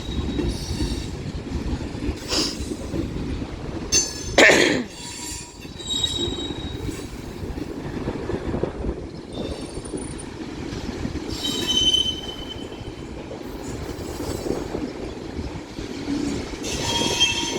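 BNSF mixed freight train rolling past: a steady rumble of railcars over the rails, with high-pitched wheel squeals coming and going. There is one loud, brief burst about four and a half seconds in.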